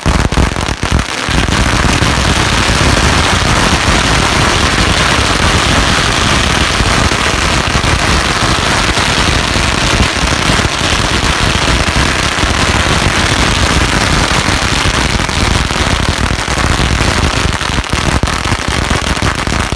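A long string of firecrackers going off in rapid, continuous crackling bangs, dense and loud, starting about a second in and stopping near the end.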